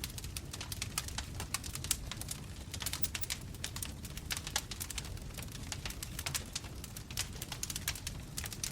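Bonfire crackling: irregular sharp pops and snaps of burning wood, several a second, over a steady low rumble of the flames.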